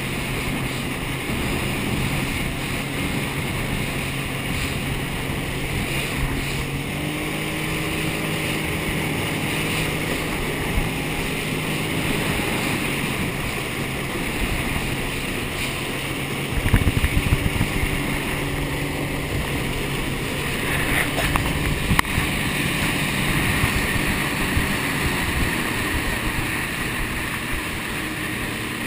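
Jet ski engine running steadily under way, with water rushing and wind on the microphone. The engine note rises slightly about seven seconds in, and there is a short stretch of choppy thumps around seventeen seconds.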